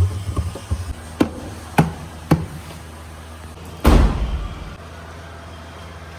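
Three sharp knocks about half a second apart, then one heavy thud about four seconds in that dies away over roughly half a second, over a steady low hum.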